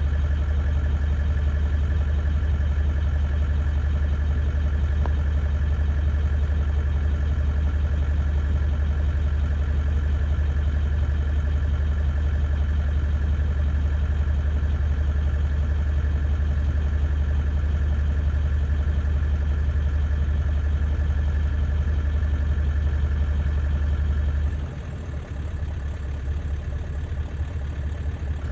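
A steady low engine hum, like an idling vehicle, which drops in level and turns uneven about 25 seconds in.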